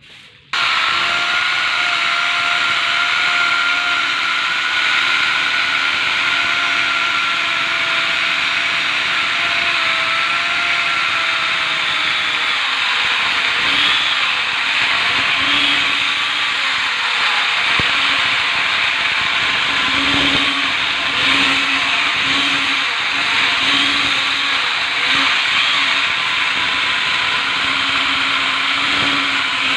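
Electric mini chainsaw switched on about half a second in, first running with a steady high whine. From about halfway through the whine gives way to a rougher, scratchier sound, as of the chain cutting wood.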